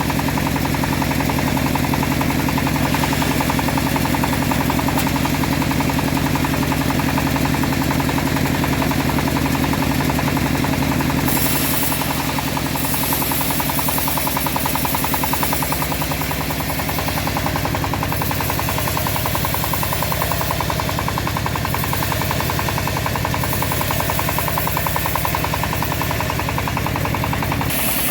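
Engine of a homemade bandsaw sawmill running steadily under load with a fast, even firing beat, and a high hiss that swells and fades several times.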